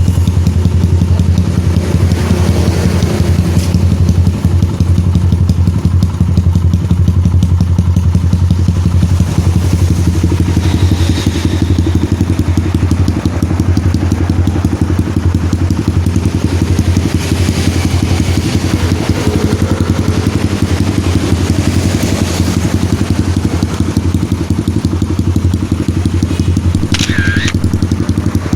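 Kawasaki KLX 150's single-cylinder four-stroke engine idling steadily through an aftermarket racing exhaust, a loud, even run of exhaust pulses with no revving.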